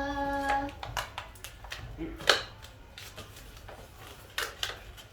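Latex modelling balloons being handled and twisted, giving short rubbing squeaks and light taps at irregular intervals.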